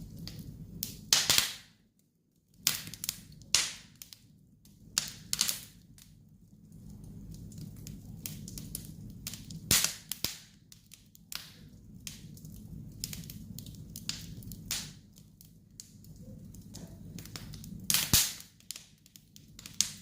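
Wood campfire crackling: irregular sharp pops and snaps, a few of them much louder, over a low steady rumble of the flames.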